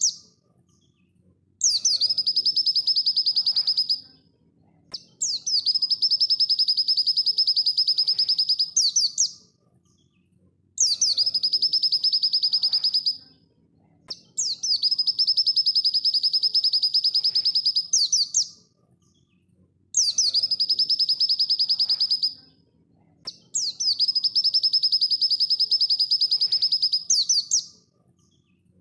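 Pleci dakun, a white-eye, singing fast: six high, rapid trilled phrases of a few seconds each, each opening and closing with quick sweeping notes, with short pauses between them.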